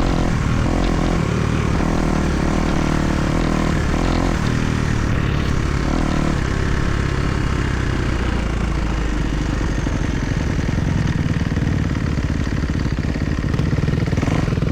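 2024 Kawasaki KX250's single-cylinder four-stroke engine being ridden, revving up and down through the first half, then running lower and steadier before picking up again near the end.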